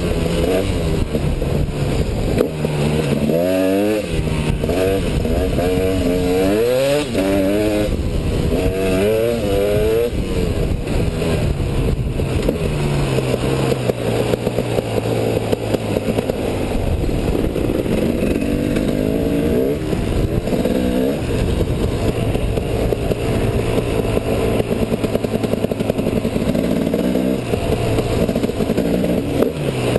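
KTM 250 EXC two-stroke enduro motorcycle engine revving up and down repeatedly for the first ten seconds or so, then running at a steadier pitch with a couple of brief drops in revs.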